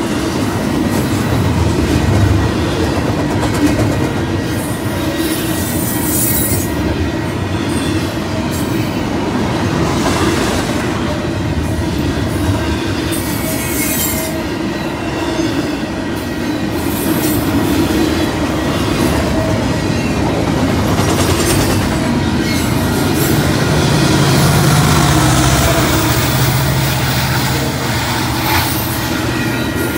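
Double-stack intermodal freight cars rolling past: a steady rumble of steel wheels on rail with clickety-clack over the joints. High wheel squeals come and go, strongest about ten seconds in and again near the end.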